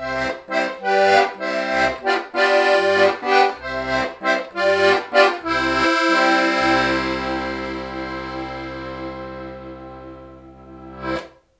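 Club IIB diatonic button accordion playing the closing bars of a folk tune: rhythmic chords over a pumped bass, then a long held final chord that slowly fades away. A short click comes just as the chord ends.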